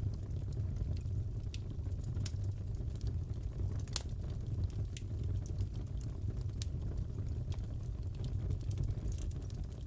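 Crackling wood fire in a fireplace: a steady low rumble with scattered sharp pops and snaps, the loudest about four seconds in.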